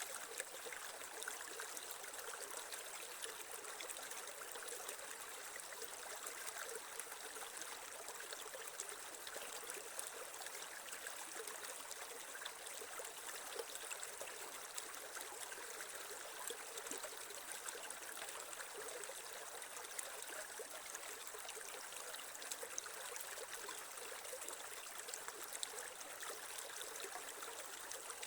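Creek water flowing and trickling over stones, a steady splashing that doesn't let up.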